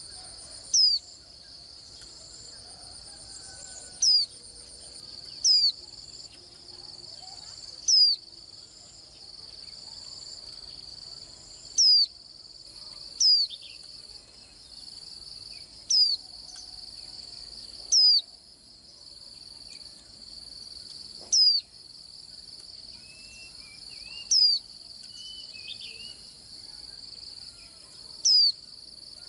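White-eye giving a sharp, high call note that falls steeply in pitch, repeated about every two to four seconds. Under it runs a steady, high insect trill.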